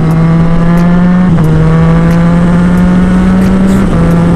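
Yamaha XSR900 three-cylinder engine pulling hard at speed, its note climbing steadily and dropping sharply twice as the rider shifts up through the gears, with wind rush over the microphone.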